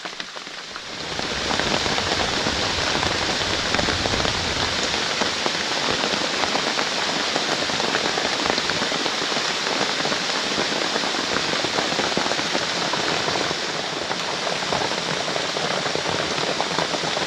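Heavy rain falling steadily, a dense hiss of countless drops. It starts about a second in, after a few scattered drips.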